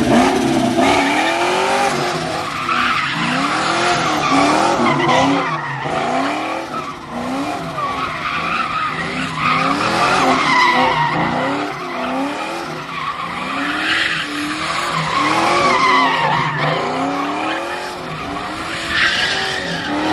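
Car engine revved hard in repeated surges, its pitch climbing and dropping about once a second, over screeching tyres as the car does a burnout or donuts.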